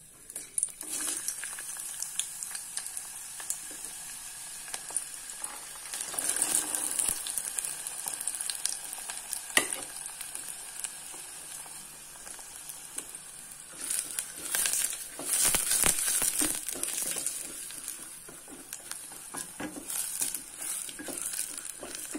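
Chopped onion and garlic sizzling in hot oil in a stainless steel pot, stirred with a wooden spatula. The sizzle swells louder at times, and there is one sharp knock about ten seconds in.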